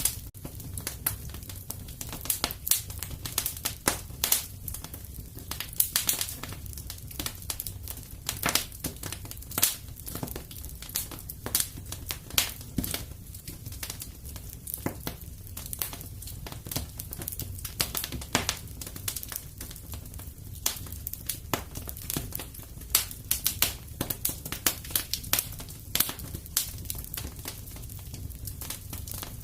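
Wood fire crackling in a fireplace: irregular sharp crackles and pops, several a second, over a low, steady rumble of the flames.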